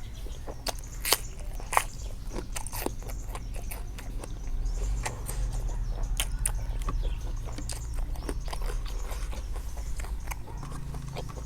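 A person biting and chewing food close to the microphone, with irregular sharp crunching clicks.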